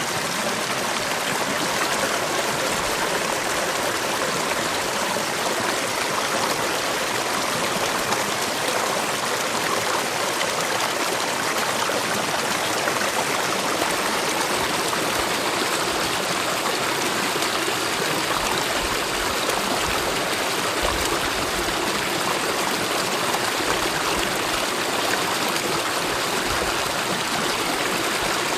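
Mountain valley stream running over rocks: a steady, even rush of water.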